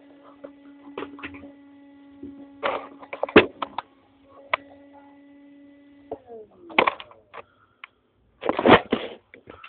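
An RC monster truck's electric motor whines steadily, then falls in pitch and stops about six seconds in, amid sharp knocks, cracks and short rustling bursts.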